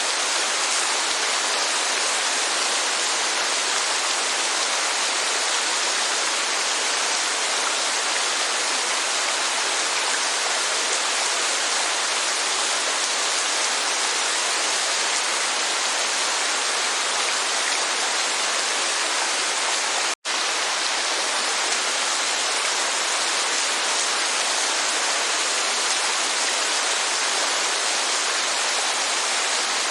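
Steady rush of rain and a waterfall, an even hiss with little deep bass. It cuts out completely for a split second about twenty seconds in, then resumes unchanged.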